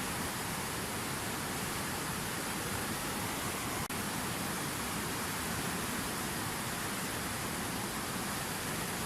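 Water from a fountain waterfall splashing down in a steady, even rush, with a momentary dip in level about four seconds in.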